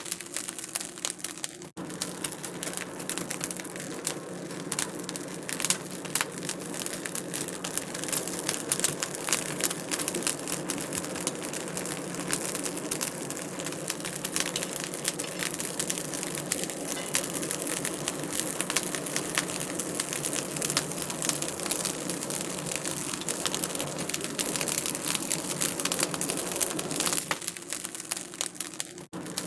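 Wood fire crackling in a fireplace: a dense, steady run of small snaps and pops, with a brief drop in sound about two seconds in and again near the end.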